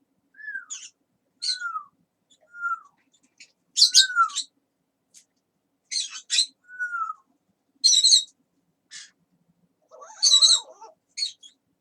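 A pet talking parrot calling in short separate bursts: brief falling whistles mixed with harsh, high squawky chirps, and a longer babbling run of chatter about ten seconds in.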